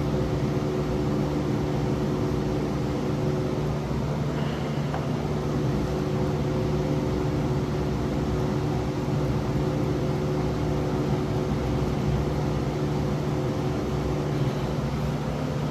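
A steady machine hum made of several unchanging tones, holding at the same level throughout.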